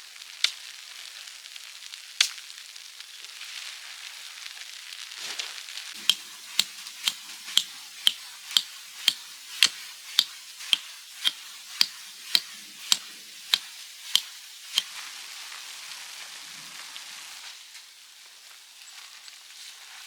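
A steady hiss with a run of sharp, evenly spaced knocks, about two a second, starting about six seconds in and stopping about fifteen seconds in; two single knocks come earlier.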